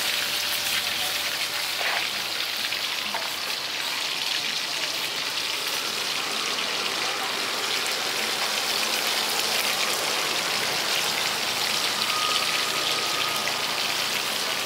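Food frying in hot oil at a street-food stall: a steady sizzling, crackling hiss.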